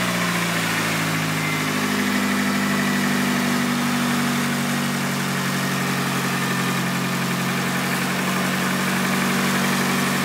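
Nissan SR20 turbo four-cylinder idling just after a reluctant cold start, its idle stepping up slightly about two seconds in and then holding steady. The hard cold starting is put down to old spark plugs or a bad sensor.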